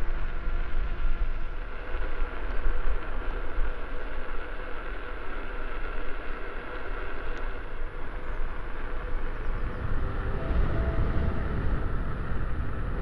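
Wind rumble on the microphone and rolling noise while riding a Leaperkim Lynx electric unicycle, steady throughout. About ten seconds in, a few steady tones come in over it.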